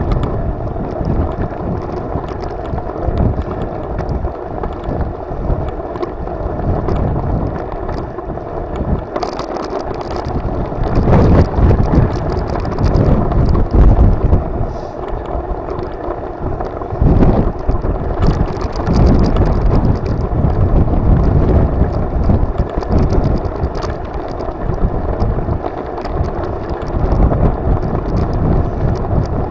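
Wind buffeting the microphone while riding, a continuous gusty rumble that surges louder for stretches, with scattered light clicks and rattles.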